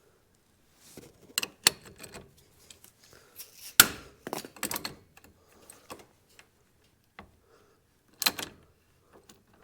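Scattered metal clanks and clicks of hand tools being worked on a UTV's brake caliper bolts: a handful of separate knocks, the loudest about four seconds in and another near the end.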